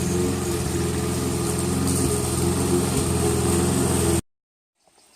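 An engine running steadily at a constant speed, cutting off abruptly about four seconds in.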